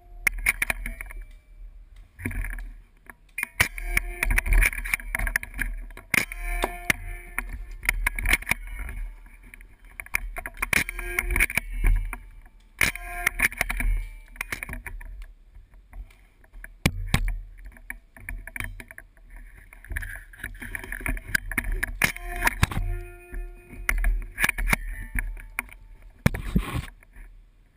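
Heavy rain and wind noise on a GoPro Hero 2 camera, with a low rumble that swells and fades and many scattered sharp clicks and knocks.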